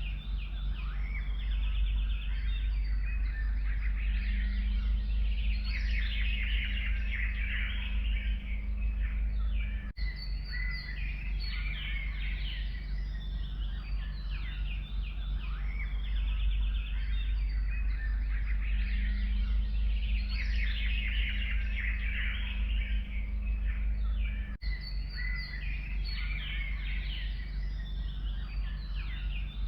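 Dense chorus of forest songbirds, many birds chirping and trilling at once, over a steady low rumble. The sound drops out briefly twice, about ten seconds in and near the end.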